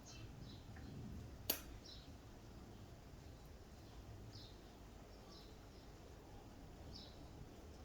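Faint outdoor ambience with scattered short, high bird chirps over a low background rumble, and a single sharp click about a second and a half in.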